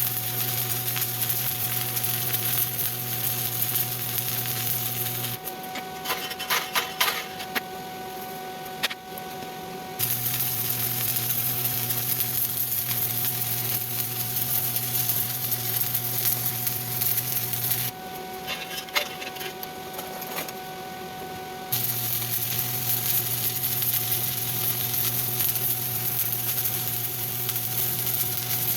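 Stick welding arc crackling and hissing steadily, with a low hum, in three long runs. Between the runs are two breaks of a few seconds where the arc is out and a few sharp clicks and taps are heard.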